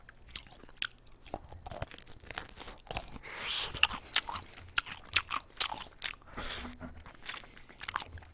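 A person biting into and chewing pieces of chicken close to the microphone, with many irregular sharp crunches.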